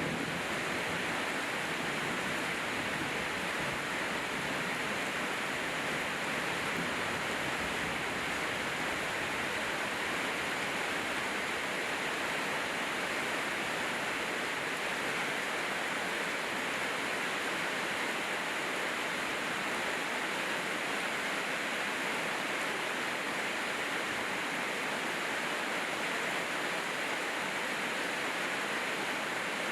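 Steady rainfall, an even hiss with no separate drops or knocks standing out.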